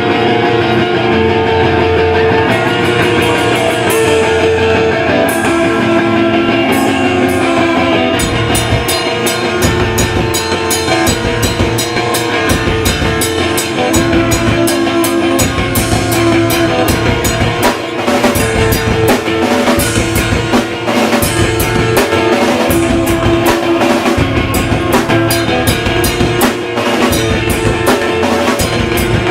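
Hardcore punk band playing live: guitars and drum kit. Sustained guitar chords open, cymbal hits come in a couple of seconds in, and the full drum beat starts about eight seconds in and drives on.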